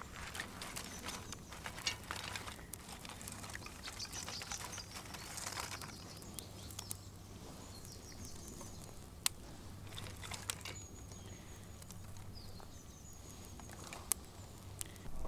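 Small birds chirping and trilling in short high phrases, mostly in the middle stretch, over rustling and scattered sharp clicks of handling.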